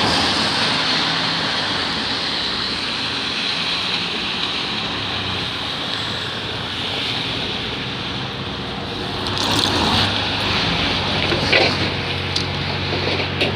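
Alexander Dennis Enviro400 double-decker bus running on a wet road: a steady low engine hum under a constant hiss of tyres and spray, with a few clicks and knocks about ten seconds in.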